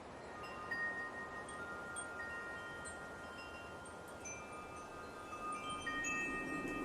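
Wind chimes ringing: clear tones struck one after another, each ringing on for a few seconds and overlapping, over a soft steady wind.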